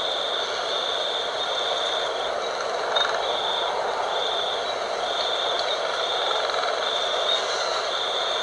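Wind blowing steadily. Over it a high chirp pulses on and off about once a second.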